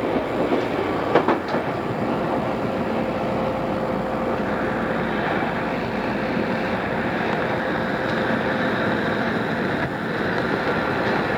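Odakyu 2600 series electric train running at speed: a steady rumble of wheels on rail with a steady hum running through it. About a second in, a few sharp clicks come as the wheels pass over rail joints. The sound is a cassette-tape recording.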